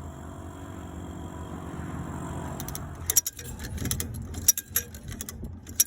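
A vehicle engine running steadily, then from about halfway through a run of sharp, irregular metallic clinks and rattles over it, typical of chains and hooks being handled.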